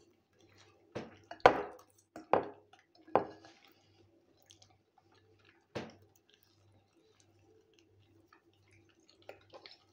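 Close-up eating sounds of fried potatoes and egg being chewed: wet smacks and clicks from the mouth, a handful in the first few seconds, one more around six seconds, and a small cluster near the end.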